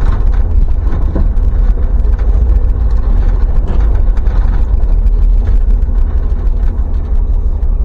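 Car on the move, heard as a loud, steady low rumble of engine, road and wind noise.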